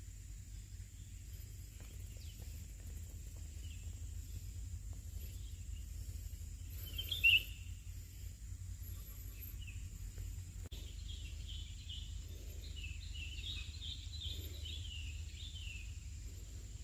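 Birds chirping over a steady low outdoor rumble: one louder call about halfway through, then a quick run of short chirps, three or four a second, for several seconds near the end.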